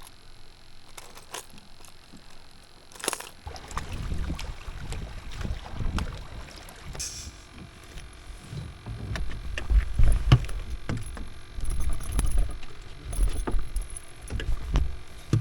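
A canoe on the water: an irregular low rumbling against the hull starting a few seconds in, with scattered light knocks of gear or paddle on the canoe.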